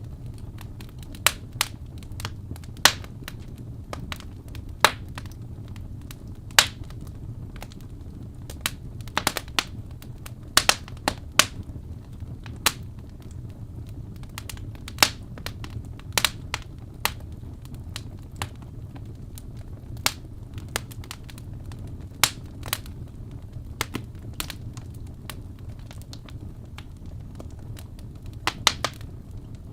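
Wood fire in a fireplace crackling: irregular sharp pops and snaps, a few clustered together, over a steady low rumble of the burning fire.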